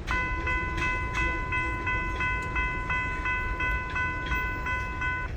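Railroad grade-crossing bell ringing steadily, about two and a half strokes a second, over the low rumble of a passing freight train. The bell starts just after the beginning and stops near the end.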